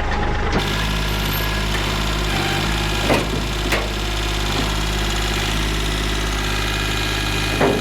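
Tractor engine running steadily; its note shifts about half a second in, as the tractor takes up the lift, and then holds. A few short knocks come over it, near the middle and near the end.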